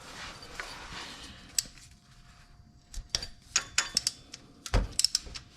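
Irregular metallic clicks and clinks of a hand tool working the water pump bolts loose under the engine, with a dull thump near the end.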